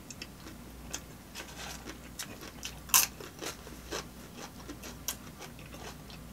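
Close-miked mouth sounds of people biting and chewing soft sub sandwiches (veggie patty subs), with irregular wet smacks and clicks. The sharpest smack comes about three seconds in.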